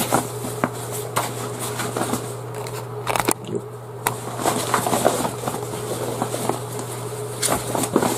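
Irregular rustling and crinkling with scattered clicks as a large fabric storage tote bag and its packaging are handled.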